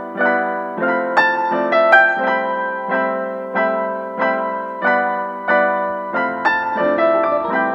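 Instrumental piano music: chords struck at an even pace, about one and a half a second, with a deep bass note joining about six seconds in.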